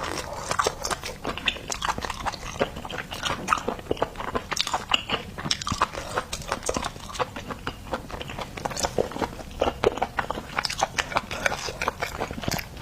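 Close-miked eating of seafood: wet chewing and crunching, a steady stream of irregular small clicks and crackles.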